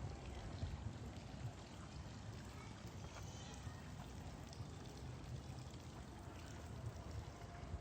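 Steady outdoor rushing noise with a low rumble underneath and faint voices, like water or wind.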